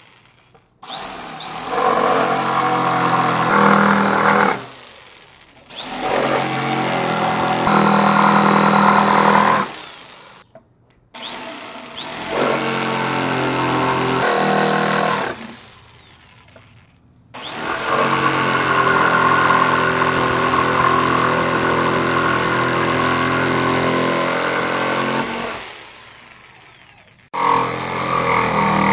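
Electric power tool working wood, run in about five separate bursts of several seconds each. Each burst starts abruptly with a steady motor whine and winds down at its end.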